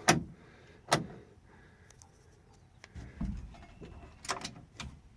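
Sharp clicks and knocks from handling the car's fittings: one click at the start and another about a second in, a dull thump about three seconds in, then a few lighter clicks.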